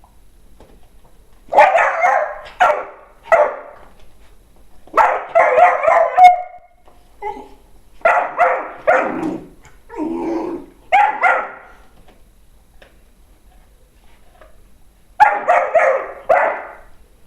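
Dogs barking in four short bouts of quick barks, with pauses between.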